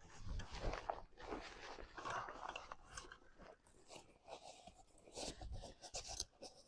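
Shooting gear being handled and set up: irregular crunching and rustling with scattered sharp clicks.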